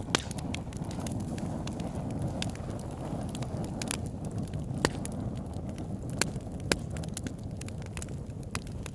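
Wood fire burning: a steady low rush of flames with constant small crackles and a few louder, sharp pops of burning wood scattered through.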